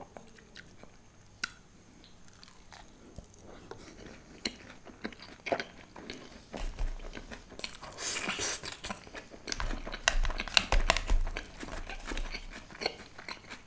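Close-miked chewing of an achari veg momo dipped in red chutney: a few faint mouth clicks at first, then dense, steady chewing from about four seconds in, loudest in the second half.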